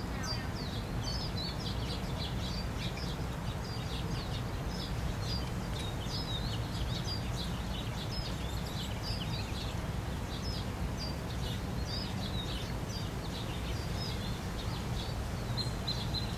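Several small birds chirping and singing in rapid short high notes over a steady low rumble. Near the end a higher, held whistle-like note sounds twice.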